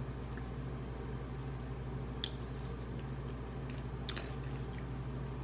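A person chewing food, with two short sharp clicks of a fork against the plate about two and four seconds in, over a steady low hum.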